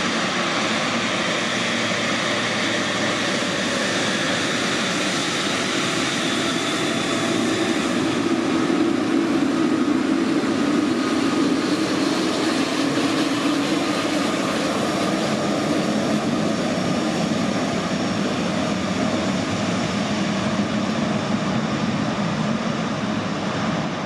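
An airliner's engines passing, a steady rumble that grows loudest about eight to fourteen seconds in and then slowly fades.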